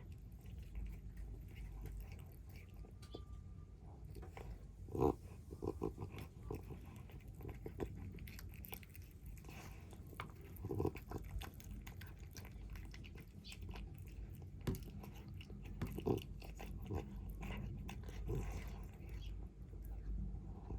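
Stray kittens chewing and crunching their food, with irregular bites and clicks over a low background rumble.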